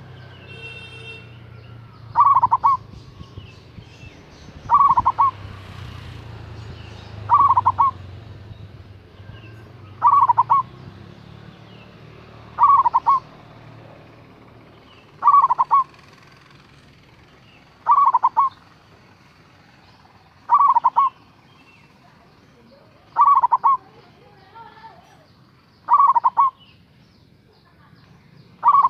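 Zebra dove (perkutut) cooing: a short, loud burst of quick coos, repeated at an even pace about every two and a half seconds.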